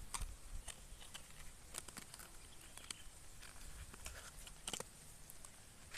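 Faint scattered clicks and rustling, with a stronger click a little before the end, over a quiet outdoor background.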